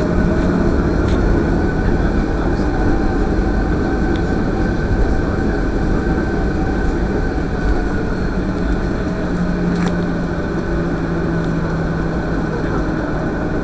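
Aircraft engines running steadily: a loud low rumble with a steady hum over it, and a few faint clicks.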